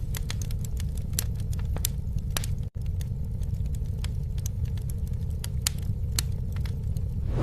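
Campfire burning: many irregular sharp crackles and pops over a steady low rumble. The sound cuts out for an instant a little under three seconds in.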